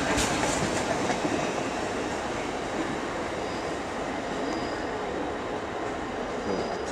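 Class 170 Turbostar diesel multiple unit pulling out, its engines and wheels running steadily and slowly getting quieter as it leaves.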